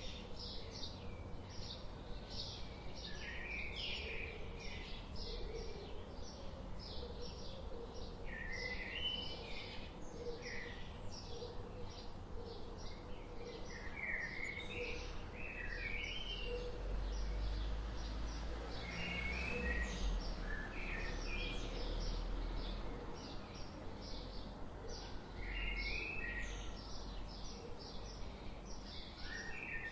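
Several wild birds chirping and singing: a dense run of short, high chirps, with repeated warbling phrases every few seconds. A low rumble sits under the song in the middle stretch.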